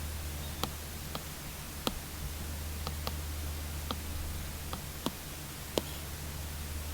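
Apple Pencil tip tapping and clicking on an iPad screen fitted with a paper-texture film, in irregular separate taps about one or two a second, over a steady low hum.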